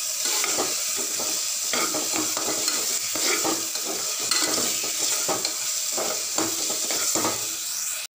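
Tomato-onion masala frying and sizzling in a pressure cooker while a metal spoon stirs it, scraping and knocking against the pot again and again.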